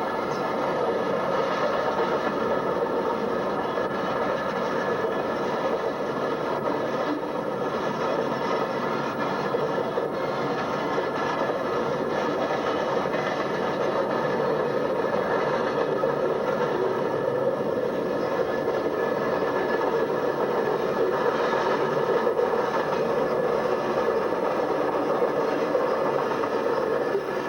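A long freight train's cars rolling past: a steady rumble of steel wheels on rail with faint scraping and clatter, and no distinct rhythmic clickety-clack.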